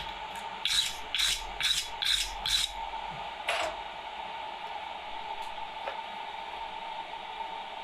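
Five quick scraping strokes about half a second apart, then one more a second later, over the steady hum of a coal forge's air blower.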